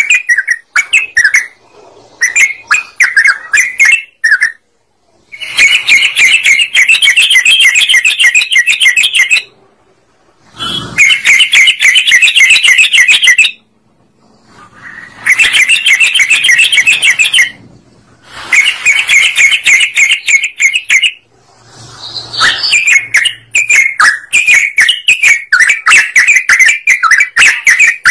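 Yellow-vented bulbul singing loudly: short chirped phrases at first, then several bouts of rapid, bubbling chatter, each a few seconds long with brief pauses between them. This is a lure recording used to call in other birds.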